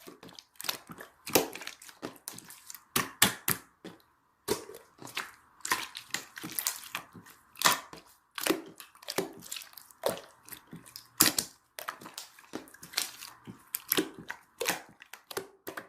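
Grape konjac jelly crushed and squished close to the microphone: irregular sharp crackles, about one or two a second, with brief gaps.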